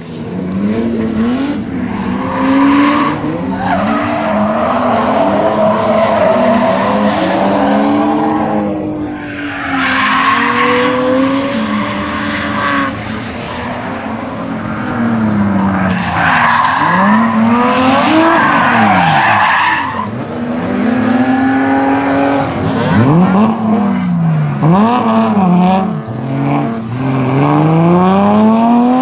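Rally car engine revving hard and falling back again and again as it is driven sideways, with tyres squealing and skidding on the surface.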